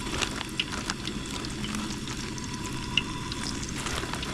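Battered catfish nuggets frying in hot oil: a steady sizzle with many small crackles and pops, one sharper pop about three seconds in.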